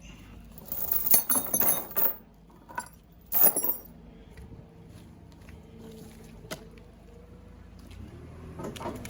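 Steel log chain clinking and jangling in rattling bursts as it is handled, strongest about a second in and again around three and a half seconds in, with a few single clinks after.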